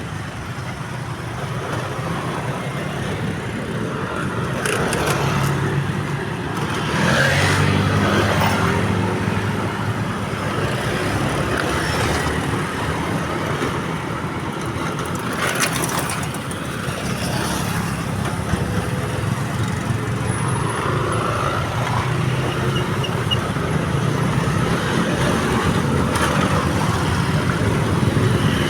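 Road traffic with motor vehicle engines running as vehicles pass a railway level crossing. Louder passes come about 5, 7 and 16 seconds in.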